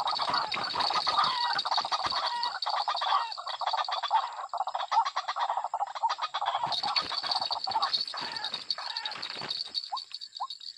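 A dense chorus of chattering wild animal calls with a steady high buzz above it. It thins out near the end, where two short rising chirps stand out.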